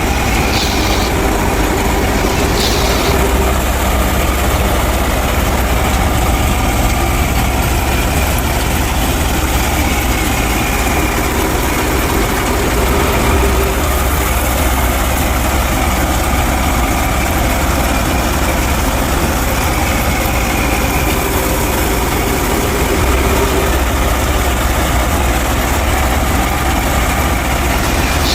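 Tractor engine idling steadily, a constant low rumble with an even noisy whir over it and no change in speed.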